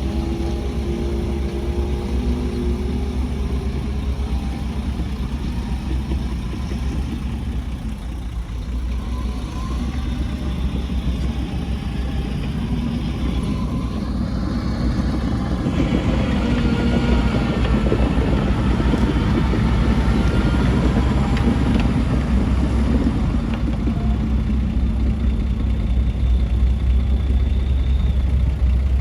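Heavy diesel earthmoving machinery running steadily, with a deep low rumble and engine pitch that shifts up and down. The engine sound grows louder about halfway through.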